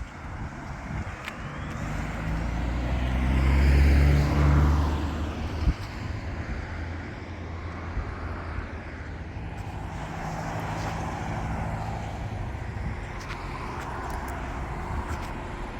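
Motor vehicles driving past on a road: the engine and tyre noise of the nearest swells to its loudest about four seconds in and fades away, with a short knock just after. A second vehicle passes more faintly later on.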